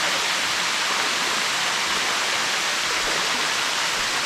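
Steady rush of falling water, an even hiss.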